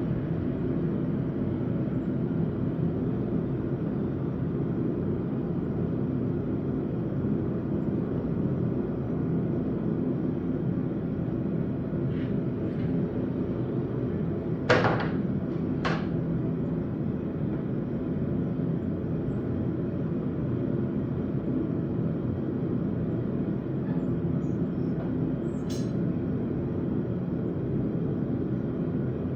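Blacksmith's forge running with a steady low roar, with two sharp knocks about halfway through, a second apart.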